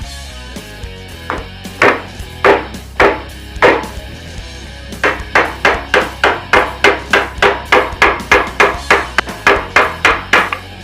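Hammer blows struck through wood onto a dented motorcycle gas tank to straighten it: four separate knocks, then a quick run of about three knocks a second. Background music plays underneath.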